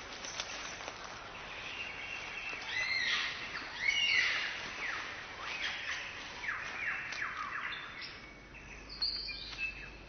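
Wild birds calling: a string of chirps and whistled notes, many of them quick falling notes, loudest about three to four seconds in.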